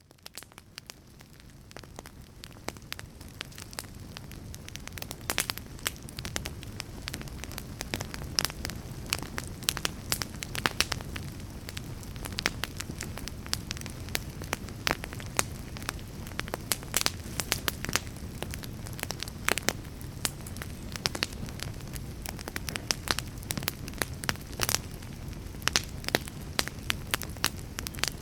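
Fire crackling: a steady low hiss with frequent irregular sharp pops and crackles, fading in over the first few seconds.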